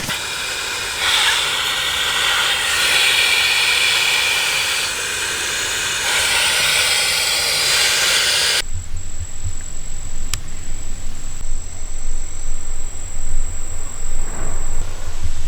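Steady hiss of rain falling. It cuts off suddenly about eight and a half seconds in and gives way to a low throbbing hum.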